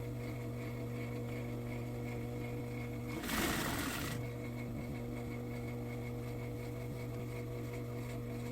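Sewing machine motor humming steadily, with a brief louder burst of noise about three seconds in that lasts about a second.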